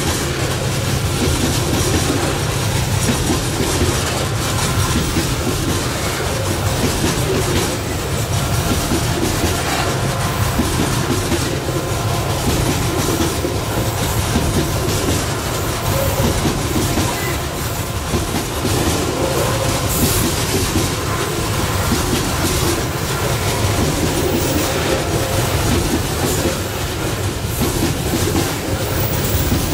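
Long loaded coal train rolling steadily past, its wagon wheels clattering over the rail joints, with a faint steady wheel squeal.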